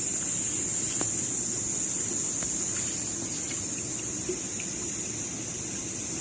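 Steady rush of running water, with a constant high-pitched hiss above it and a few faint ticks.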